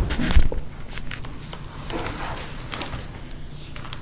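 Handling noise from a 2006 MacBook being worked on: scattered light clicks and knocks of its case and parts, with a louder thump about half a second in.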